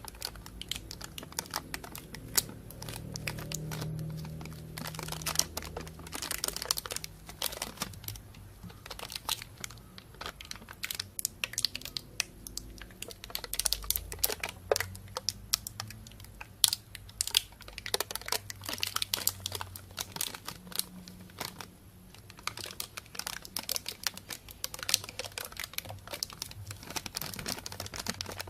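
Thin plastic bag being crumpled and rustled close to binaural microphones: a dense, irregular run of sharp crinkles and crackles.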